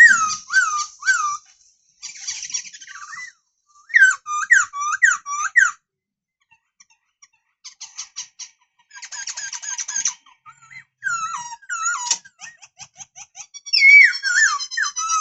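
Black-throated laughingthrush singing: series of loud whistled notes that swoop down and up, repeated several times per phrase, mixed with stretches of fast ticking chatter, in bursts with short pauses between.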